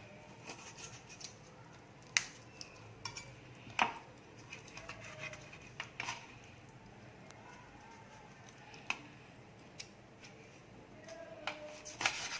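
Chicken wings being cut through at the centre joint: a handful of sharp clicks and knocks from the blade, spaced a second or two apart, with quiet between them.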